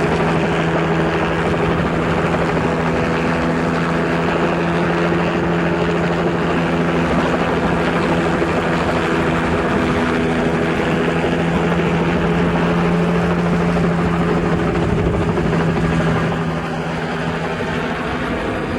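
Helicopter running steadily: a loud, even drone with several steady hums in it, dropping a little in level near the end.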